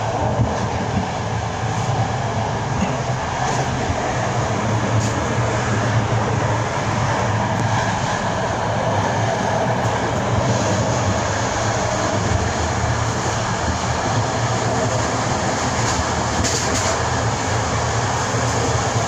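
Inside a passenger train carriage running at speed: the steady rumble and rattle of the wheels on the rails, with a few faint knocks.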